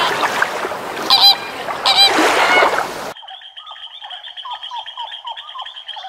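Flamingo honking: three loud, nasal, goose-like calls in the first three seconds. About three seconds in, it cuts abruptly to a thinner, quieter run of rapid, repeated short calls.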